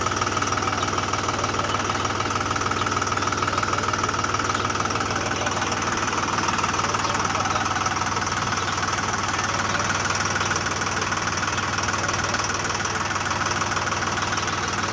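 An engine running steadily with a rapid, even knocking chug, like a tractor engine at idle.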